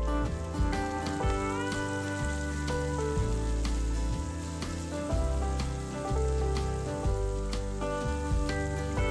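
Food frying in a pan, a steady sizzle, under background music with held notes and a bass line.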